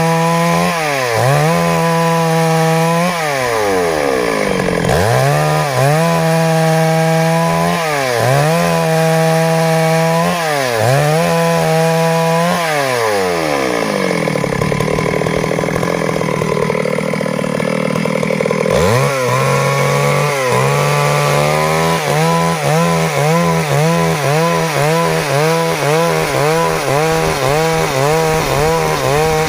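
Stihl MS382 two-stroke chainsaw cutting wood, its engine pitch repeatedly dropping under load and climbing back. About halfway through it sinks lower for several seconds before picking up again, then runs on with a quick, shallow rise and fall.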